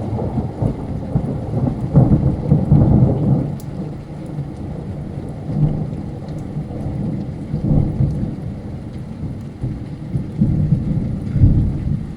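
Rolling thunder from a nearby lightning strike, a long low rumble that swells loudest about two seconds in and rolls again near the end, over steady heavy rain.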